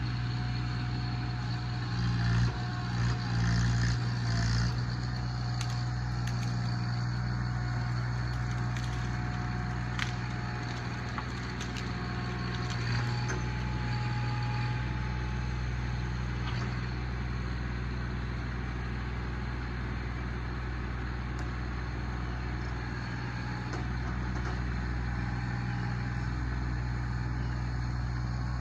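Tractor engine running steadily under work, with a few louder surges about two to five seconds in.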